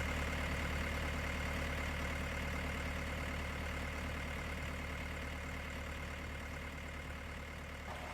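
A vehicle engine idling with a steady low note, gradually growing quieter.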